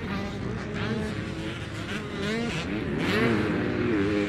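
Motocross bike engines revving on and off as riders work the throttle around the track, the engine pitch rising and falling repeatedly, loudest about three seconds in.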